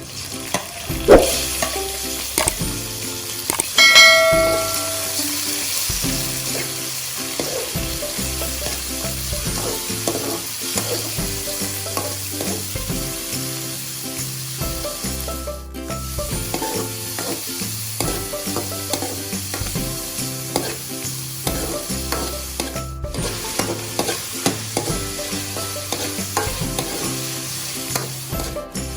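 Food frying in oil in a pan, with a steady sizzle and a utensil stirring and scraping against the pan. There is a sharp knock about a second in and a ringing metal clang about four seconds in.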